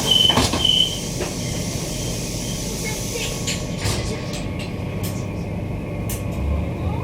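Queensland Rail electric multiple unit train: a short repeating high beep stops about a second in, then a steady carriage rumble with a few clicks. Near the end a rising electric whine begins, typical of the traction motors as the train accelerates.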